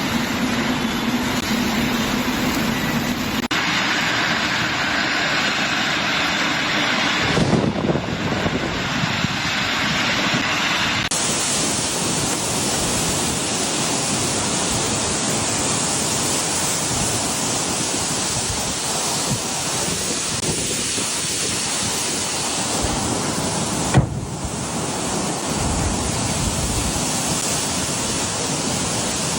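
Heavy rain and wind making a steady, loud rushing noise, with a few abrupt changes in its tone where the clips change. A single sharp knock comes about 24 seconds in.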